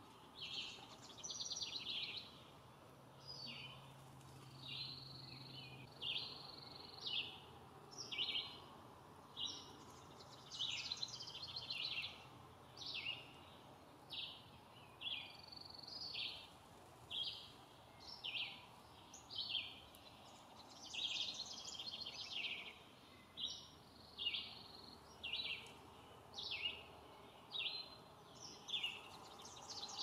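Backyard songbirds singing and calling, short high phrases repeating roughly once a second, over faint steady background noise.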